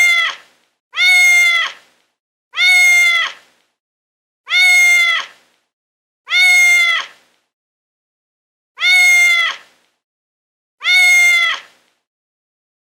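A domestic cat meowing seven times, each meow under a second long and at the same pitch, about every one and a half to two seconds, with a slightly longer pause in the middle.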